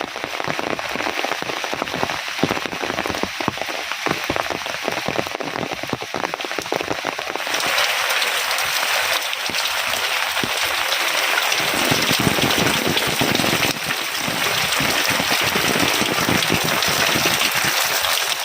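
Heavy rain falling, a dense patter of drops striking surfaces. About seven seconds in it changes to a louder, denser hiss.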